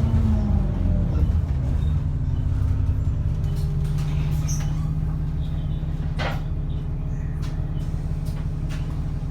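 Cummins ISBe 6.7-litre diesel engine of an ADL Enviro400 double-decker bus with a ZF gearbox: the revs fall over the first second and a half, then the engine runs steadily at low revs. A brief sharp noise comes about six seconds in.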